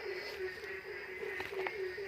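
Night chorus of frogs and insects: a steady low call pulsing about three times a second, over higher, continuous insect trills, with a few faint clicks in the second half.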